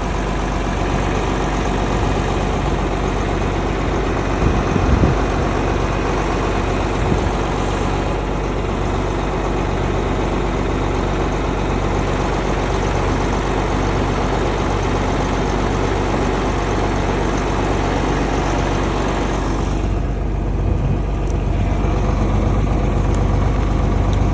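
An engine running steadily with a constant low note. About twenty seconds in, its noisier, higher part drops away while the low running note carries on.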